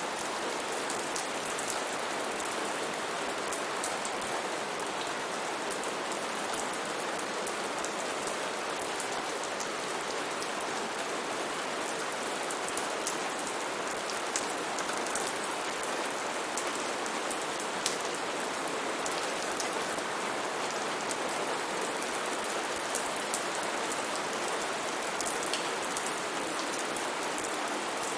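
Steady heavy rain falling on foliage, a dense even hiss with many close drops ticking through it and a few louder single drops now and then.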